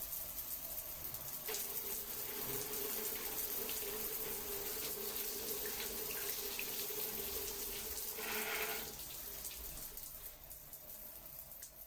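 Water running steadily, like a tap pouring into a sink, with a steady tone over it that starts about a second and a half in and stops after about nine seconds; the flow then grows quieter.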